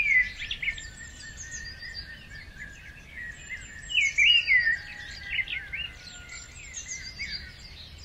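Several wild birds chirping and singing together: many short, high, overlapping chirps and whistled notes, loudest about four seconds in.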